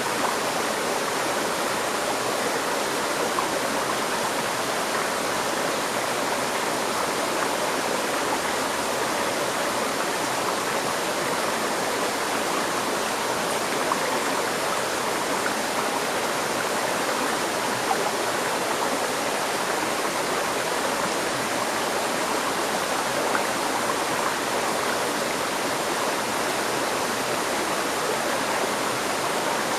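River stream flowing steadily, a continuous rushing and babbling of water over rocks with small splashes here and there.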